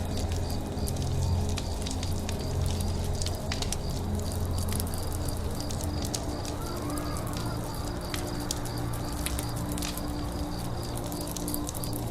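Campfire crackling, with irregular sharp pops and snaps over a low steady hum. A faint high chirp repeats evenly a few times a second throughout.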